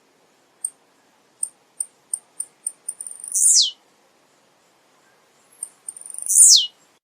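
Male blue-black grassquit (tiziu) singing. It gives a run of short, high ticks that speed up, then a loud, sharply falling note. The song comes twice, the second with fewer ticks.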